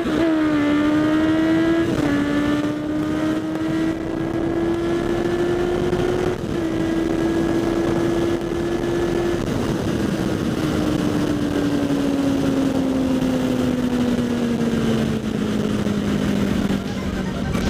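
Kawasaki Z800's inline-four engine through a LeoVince SBK aftermarket exhaust, under way. The engine note drops sharply with an upshift just after the start and again about two seconds in, holds steady, then sinks slowly over the last several seconds as the bike slows. Wind noise runs underneath on the helmet-mounted microphone.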